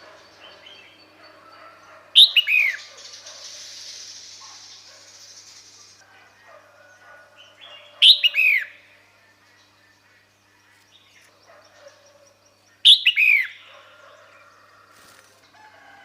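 Female red-whiskered bulbul calling three times, about five seconds apart. Each call is short and sweeps down in pitch. This is the female's call used to draw males.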